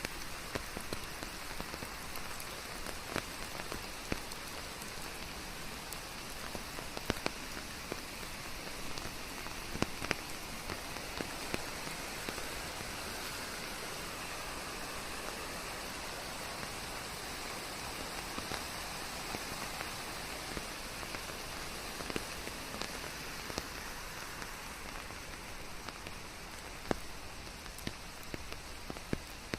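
Steady rain falling in a forest, with a close, even hiss and many scattered individual drops ticking near at hand, blended with white noise.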